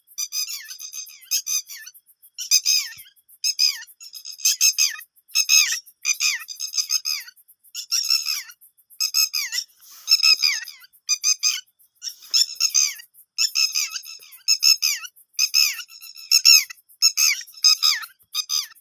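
Bird chicks calling over and over: short, high, downward-sliding calls in quick clusters of several a second, without a break.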